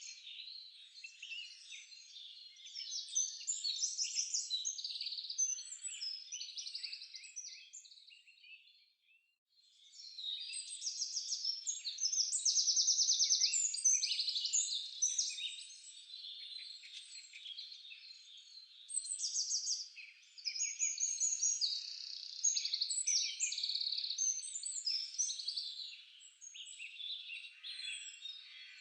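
Several songbirds singing at once in a dense, overlapping chorus of high chirps and rapid trills, broken by a brief lull about nine seconds in.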